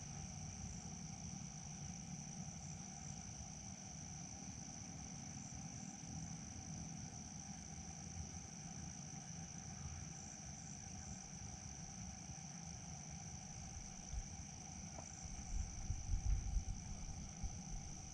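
A steady, high-pitched chorus of insects trilling without a break over a low rumble. From about three seconds before the end, louder low thumps break in.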